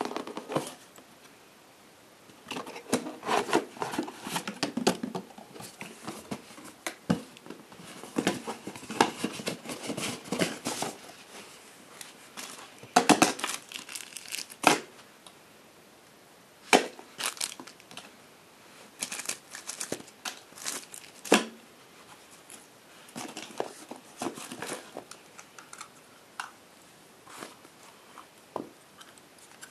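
Packaging being handled: crinkling and tearing in irregular bursts, with sharp clicks and short pauses between.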